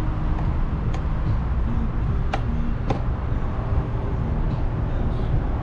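A plastic takeout pastry container being opened, with a few sharp clicks as its lid snaps, over a steady low rumble.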